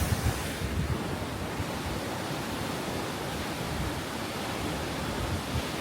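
Steady rush of a waterfall, with an uneven low rumble underneath.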